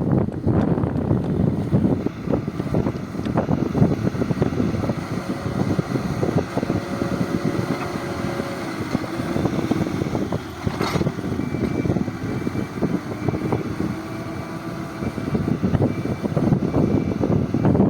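Diesel engine of a heavy earthmoving machine running steadily under load, with rattling and clanking throughout and one sharp knock about eleven seconds in.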